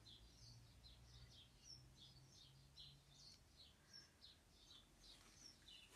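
Near silence, with faint, quick bird chirps in the background, several a second, over a faint low hum.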